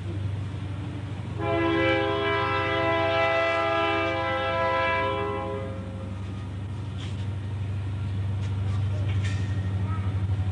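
A loud horn tone with many stacked pitches sounds for about four seconds over a steady low hum. A few faint clicks follow near the end.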